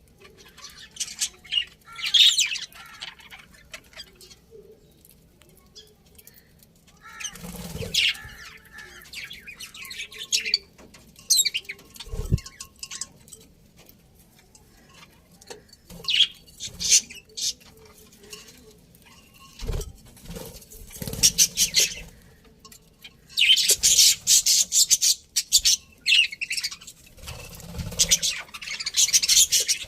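Budgerigars chirping and chattering in scattered bursts, building to a dense stretch of warbling chatter about two-thirds of the way in and again near the end, with a few short low thumps between.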